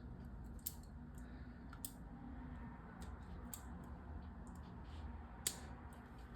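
Plastic LEGO pieces clicking as they are handled and pressed together: three sharp clicks with fainter ticks between, over a steady low hum.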